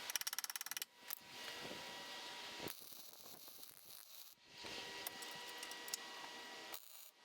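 Hand-tool work on a car in short spliced clips: it opens with a fast, even run of clicks lasting under a second, then scraping and handling noises, with abrupt cuts between sections.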